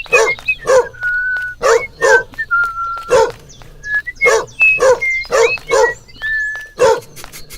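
A dog barking over and over in short, loud barks, about a dozen in quick succession, with a high whistling melody sounding in the gaps between them.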